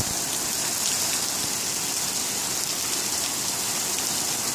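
Heavy rain falling steadily on pavement and parked cars, a dense even hiss of rain.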